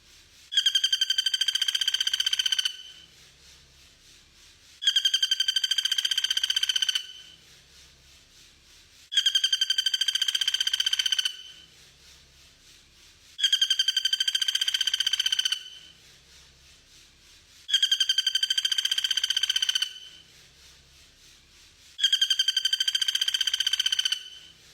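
A songbird repeating the same fast trilled phrase six times. Each phrase lasts about two seconds, with a gap of about two seconds between them.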